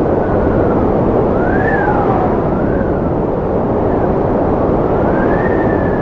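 Strong wind blowing in a steady rush, with thin whistling tones that rise and fall in pitch several times.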